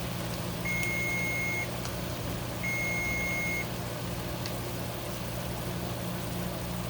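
Kitchen cooking timer beeping: two long, steady electronic beeps of one pitch, each about a second long and two seconds apart, ending by about the middle, signalling that the set cooking time is up. A steady low hum runs underneath.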